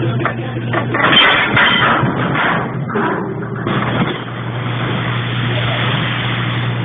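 Lifeboat engine running with a steady low hum. About a second in, a loud stretch of noisy clatter covers it for around three seconds.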